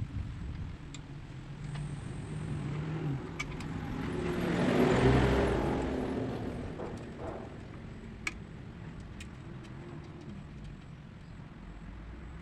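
A vehicle passing by, its noise swelling to a peak about five seconds in and fading away, over a low steady background with a few light clicks.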